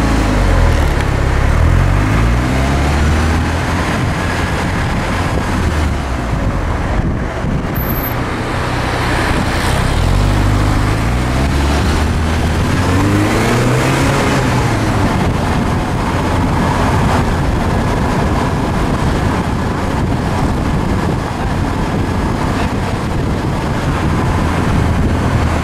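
Porsche 944 inline-four engine driving on town streets. Its note rises and falls as the car speeds up and slows, most plainly near the start and again about halfway through, over steady road and wind noise.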